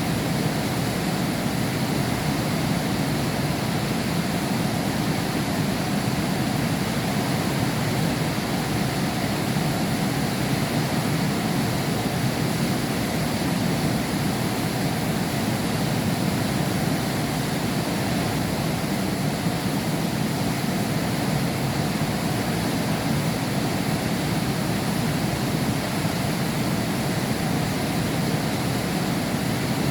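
Heavy rain falling in a steady, unbroken rush, heard from behind window glass.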